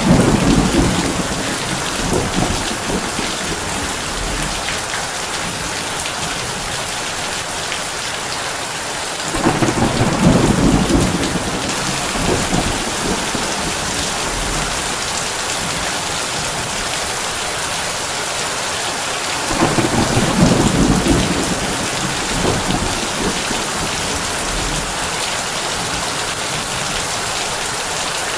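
Heavy rain on a tin roof, a steady dense hiss. Low rolling thunder swells up and fades three times, at the start, about ten seconds in and about twenty seconds in.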